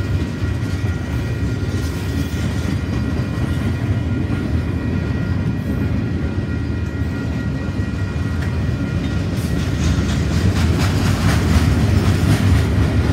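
Freight train tank cars and covered hoppers rolling past: a steady low rumble of steel wheels on the rails with a thin high ringing tone, the clatter growing louder near the end.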